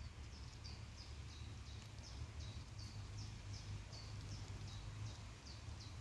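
A songbird repeating short high chirps at an even pace, about three a second, each note dropping slightly in pitch, over a low steady rumble.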